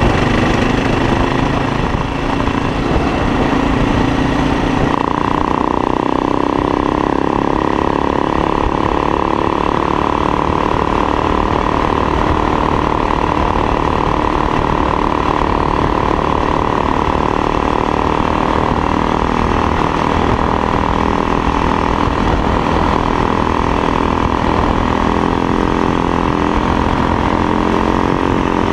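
Motorcycle engine running steadily at road speed, with wind buffeting the microphone. There is a brief dip about two seconds in, like a gear change or roll-off, after which the engine note settles a little higher.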